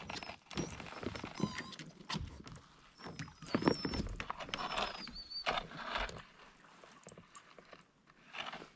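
Irregular knocks, clacks and scrapes of stones being handled and stepped on along a rocky shore, with a few thin high whistling notes.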